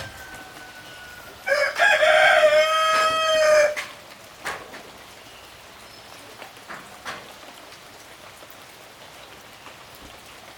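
A rooster crows once, a single drawn-out call of about two seconds that starts about a second and a half in and sags slightly in pitch at the end. Behind it runs a steady hiss with a few light ticks.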